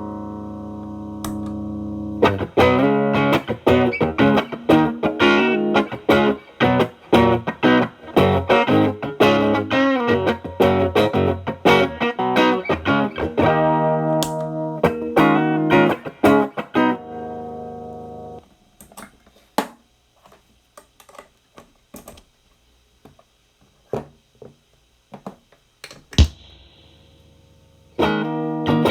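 Electric guitar (Telecaster with alnico single-coil pickups) played through a Marshall Valvestate amp's clean channel, with the signal passing through an MXR Distortion+ pedal that is switched off. A chord rings out, then comes busy picking of notes and chords for about sixteen seconds. The playing then stops, leaving only scattered string taps and a faint amp hum until it resumes near the end.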